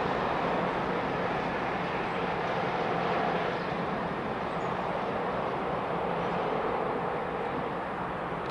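Freight train of covered wagons rolling away over the rails: a steady rumble and hiss of wheels on track, slowly fading.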